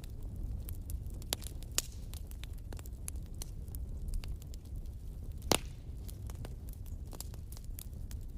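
Wood fire crackling in a fireplace: a steady low rumble of burning logs with many irregular sharp pops and snaps, the loudest about five and a half seconds in.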